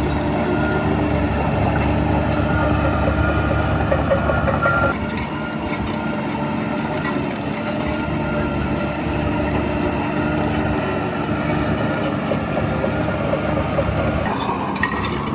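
Heavy diesel engine of earthmoving machinery running steadily, with a whine that stops and a slight drop in level about five seconds in.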